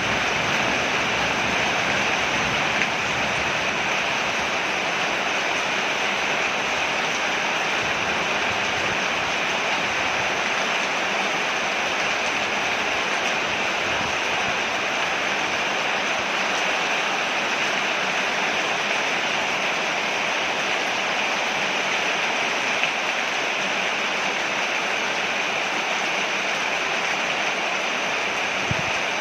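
Steady heavy rain falling on a porch, an even hiss with no let-up. A low rumble fades within the first few seconds.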